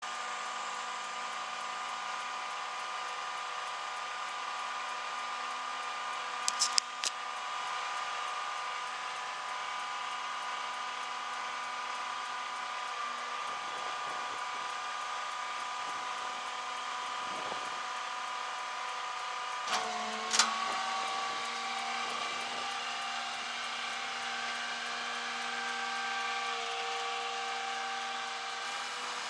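A motor running with a steady whine. A few sharp clicks come about a quarter of the way in, and a knock at about two-thirds of the way, after which the whine settles a little lower in pitch.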